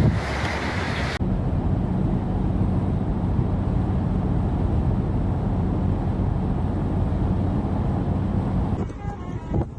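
About a second of gusty wind on the microphone, then a steady low engine drone from a running motor vehicle.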